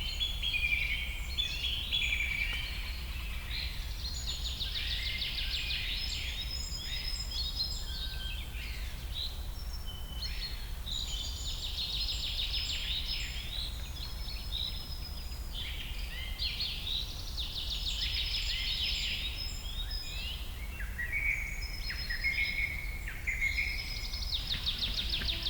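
A chorus of several songbirds chirping, trilling and whistling in quick overlapping phrases, over a steady low rumble.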